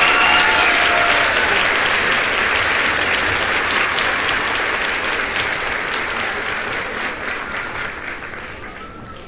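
Crowd applauding, the clapping gradually fading away.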